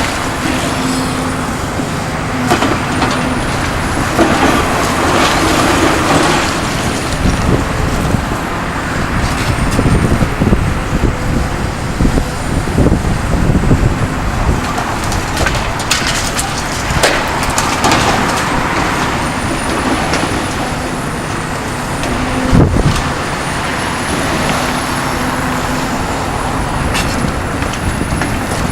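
Kobelco SK350LC-10 demolition excavator working: its diesel engine runs steadily under load while debris crunches and knocks again and again, with one loud crash about three quarters of the way through. A faint high whine rises and falls now and then.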